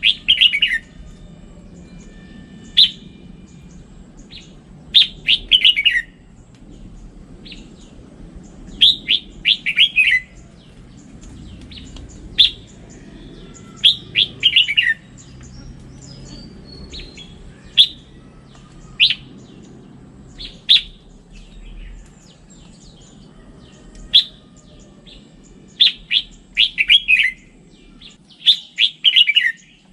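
Red-whiskered bulbul singing: short phrases of a few quick notes falling in pitch, with some single notes between, repeated every second or two over a faint low hum.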